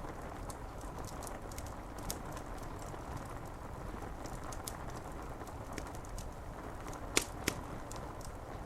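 Steady rain with a wood fire crackling: scattered small pops throughout and two sharper snaps close together near the end.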